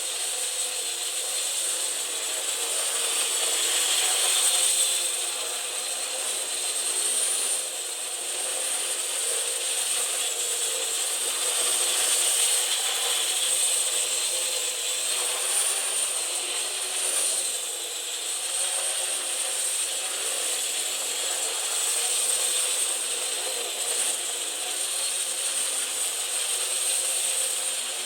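Parrot AR.Drone quadcopter's electric rotors whirring in flight: a steady, high-pitched whine that rises and falls a little in pitch as the rotor speed changes.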